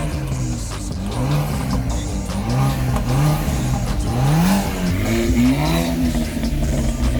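Car engines revving, the pitch rising and falling again and again, about once a second, with sweeps that overlap at times.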